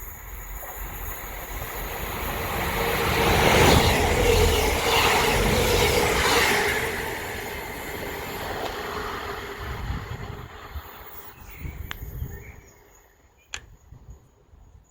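A train passing by at speed: the rumble and rail noise swell to a peak about four seconds in, then fade away as it recedes. Two short clicks follow near the end.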